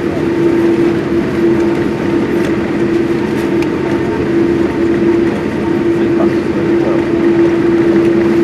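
Cabin noise of a Boeing 787 Dreamliner on the ground with its engines running: a loud, steady rumble under a constant droning hum.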